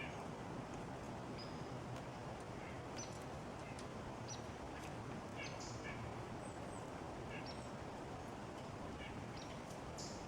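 Small songbirds calling at a feeder: a scatter of short, high chip and call notes, several a second at times, over a steady background hiss, with a few sharp clicks.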